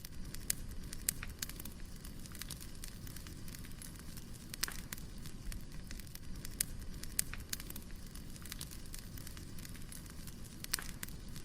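Wood fire crackling: irregular sharp pops and snaps, a few louder than the rest, over a steady low rumble of burning logs.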